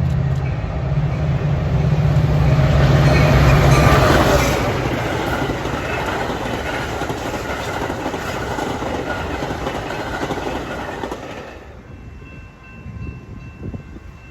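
A diesel-hauled train passing close by. The locomotive's engine drones low and loudest in the first few seconds, then the rumble and clatter of the cars rolling over the rails continue. The sound drops sharply near the end, leaving a quieter rumble.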